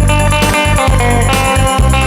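Melody guitar playing sustained notes of a song's tune over a backing track with a regular bass beat.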